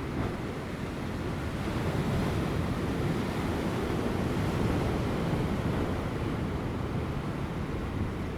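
Ocean waves breaking on offshore rocks, a continuous rumbling wash of surf that swells to a peak in the middle and eases toward the end, with light wind.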